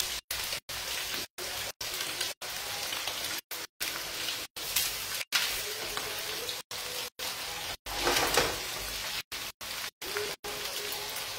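Octopus and artichokes sizzling in a wok on a gas hob, a steady frying hiss, with a wooden spoon stirring the pan. The sound drops out for a split second again and again.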